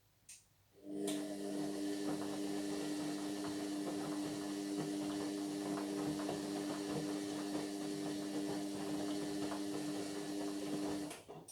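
Indesit MyTime washing machine running a steady hum with a crackle over it for about ten seconds, starting abruptly about a second in after a single click and cutting off near the end.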